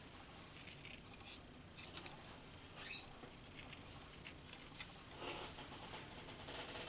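Small scissors snipping paper in quick, light clicks, with paper rustling as the sheet is handled from about five seconds in.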